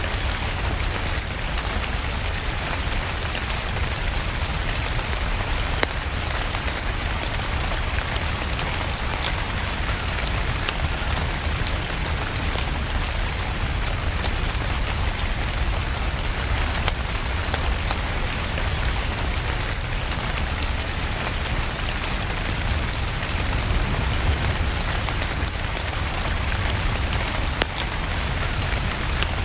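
Steady rain, with the sharp crackles of a wood fire scattered through it and a low rumble underneath.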